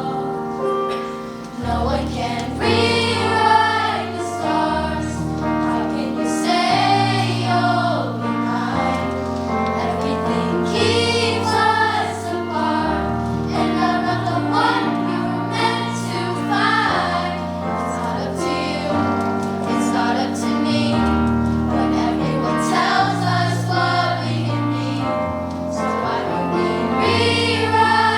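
Middle school choir singing a pop song with backing music.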